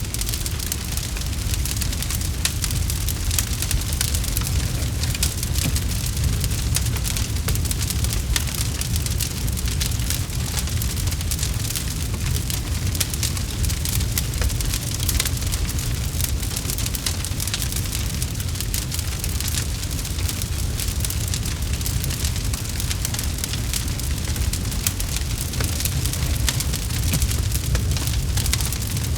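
Campfire burning: dense, irregular crackles and pops over a steady low rumble of the flames.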